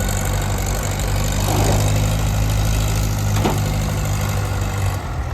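A farm tractor engine running steadily at a low, even note, with one short sharp click about three and a half seconds in.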